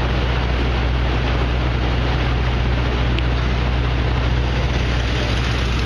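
Steady city street traffic noise over a constant low drone.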